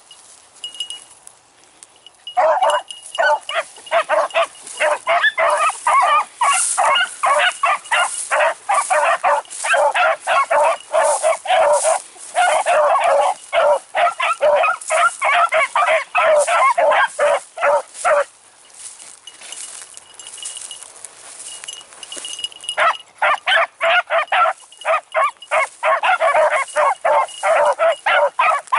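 A pack of beagles baying as they run a rabbit's track, many voices overlapping in a steady string of barks. The cry stops for about four seconds about two-thirds of the way in, then picks up again.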